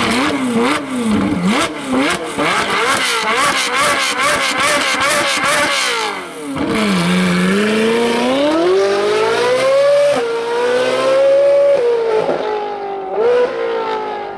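Ferrari 458 Speciale's V8 with an Fi Exhaust revved hard several times in quick succession, with a lot of crackling and popping on the overrun. It then pulls away, the pitch rising steadily through a couple of upshifts before it fades.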